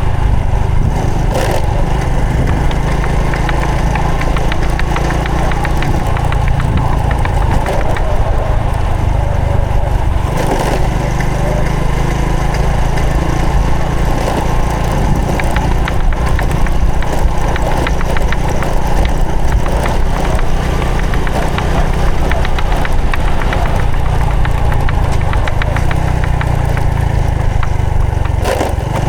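Honda Supra X 125 FI's single-cylinder four-stroke engine running steadily under way on the motorcycle.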